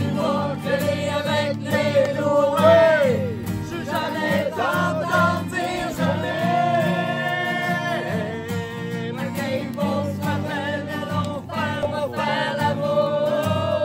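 Live singing of a French-language song, with a steady instrumental accompaniment underneath.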